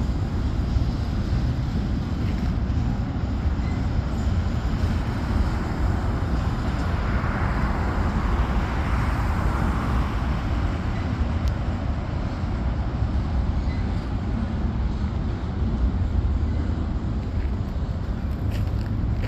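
A steady, engine-like motor rumble that swells for a few seconds around the middle.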